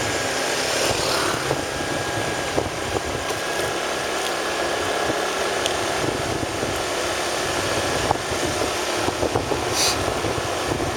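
Steady road noise from a motorcycle in motion: engine and tyre noise with wind on the microphone, and a brief hiss near the end.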